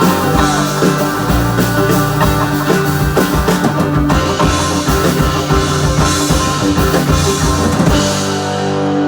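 Rock band playing, with drum kit and guitar; about a second before the end the drums stop and held guitar notes ring on.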